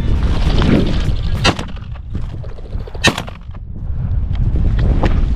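Two shotgun shots at flushing pheasants, about a second and a half apart, the second louder, over a steady low rumble.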